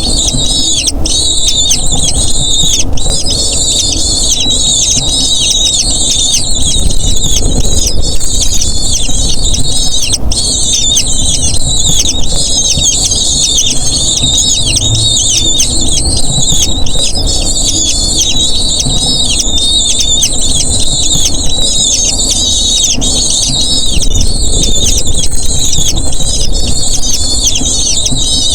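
Eagle chicks begging for food with a continuous stream of rapid, high-pitched squealing calls, over a steady low rumble.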